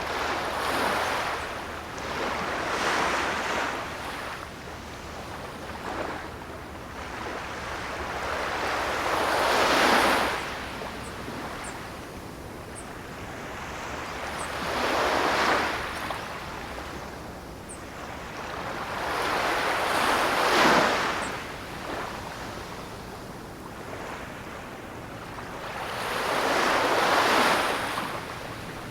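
Ocean waves breaking and washing up the shore in slow surges, each swelling and fading over a few seconds, about six in all.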